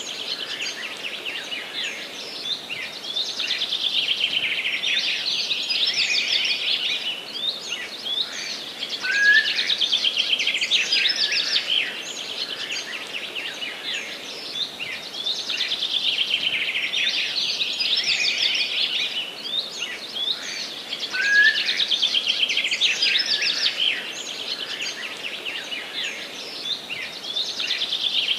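Songbirds singing in a forest: long, fast trilling songs repeat every few seconds over a steady background hiss. A short, lower whistled note comes in twice.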